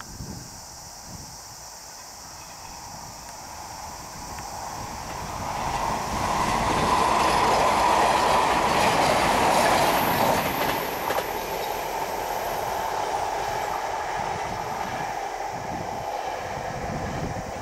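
A train passing on a curve: the running noise builds over a few seconds, is loudest about halfway through, then holds a little lower as the cars roll by. A thin high wheel squeal comes in for a few seconds in the middle.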